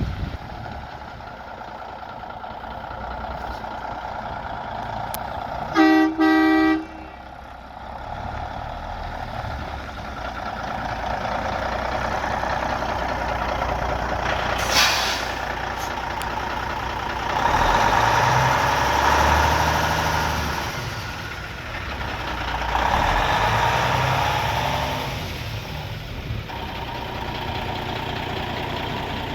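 Diesel engine of a Freightliner Coronado semi-truck tractor running. The horn sounds briefly, in two short blasts, about six seconds in, and a short hiss of air follows about fifteen seconds in. The engine is revved twice, for a few seconds each, in the second half.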